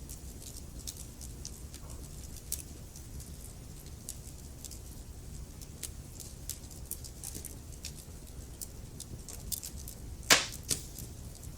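Wood fire crackling in a fireplace: scattered small crackles over a low steady rumble, with one loud pop about ten seconds in.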